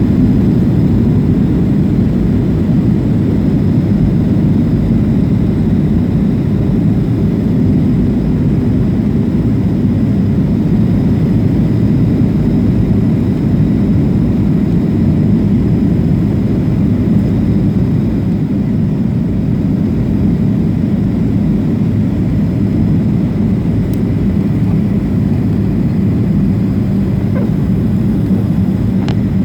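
Steady low cabin noise of a Boeing 737-500 in flight, its jet engines and the airflow over the fuselage heard from a rear seat on the approach to landing.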